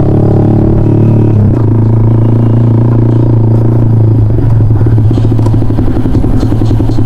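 Yamaha MT-15's 155 cc single-cylinder engine running loud through an aftermarket full-system exhaust while riding. The note holds steady, drops in pitch about a second and a half in, then turns rougher and more uneven for the last few seconds.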